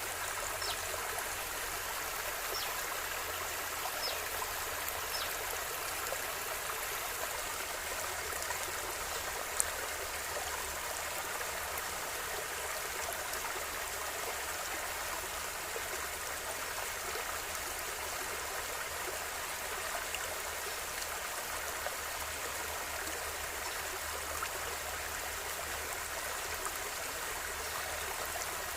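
River water flowing steadily over stones, a constant even rush with a few small splashes. A single sharp click about ten seconds in.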